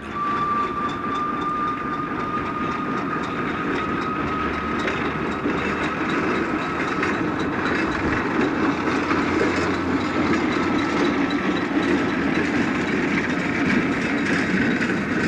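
A train running: a steady rumble of engine and rail noise with a thin, steady high tone through it.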